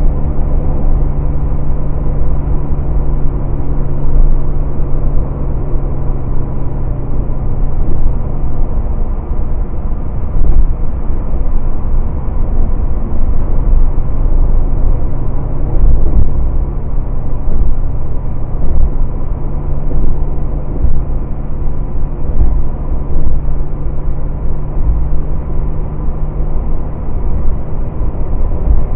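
1967 Corvair's air-cooled flat-six running at speed under heavy road and wind rumble, heard from inside the car. The engine note holds steady, sinks into the road noise about nine seconds in as the car takes the bends, and comes back through the second half.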